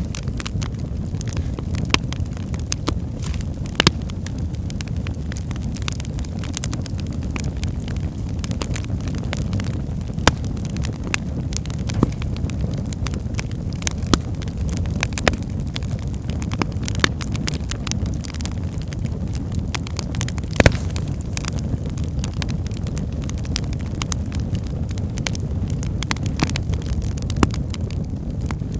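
Wood fire burning in a fireplace: a steady low rumble of flames with irregular sharp crackles and pops from the logs, the loudest pops about 4 and 21 seconds in.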